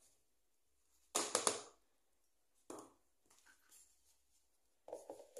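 A few short knocks and scrapes of a tin can against a blender jar as cornmeal is tipped in, the loudest about a second in, with quiet in between.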